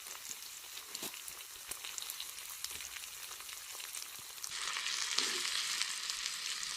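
Food frying on a cast-iron pot-lid griddle: a steady sizzle with scattered light clicks, getting louder about four and a half seconds in.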